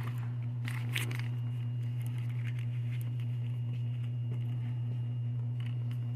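A steady low hum, with a brief rustle of handled packaging about a second in and a few faint clicks.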